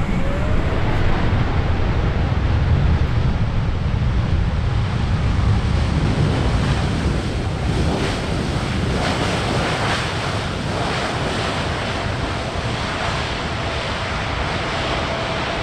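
Jet airliner engine noise: a steady rush with a low rumble that eases in the second half, a faint steady whine appearing about nine seconds in, and wind buffeting the microphone.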